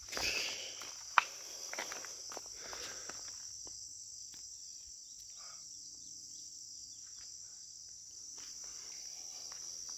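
Steady high-pitched chorus of insects in the woods. Brush rustles and a few short clicks, mostly in the first few seconds, with one sharp snap about a second in.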